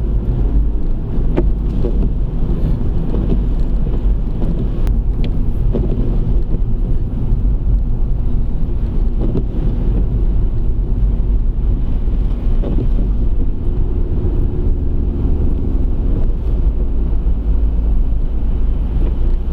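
Steady low rumble of a car driving along, engine and tyre noise as heard inside the cabin, with some wind.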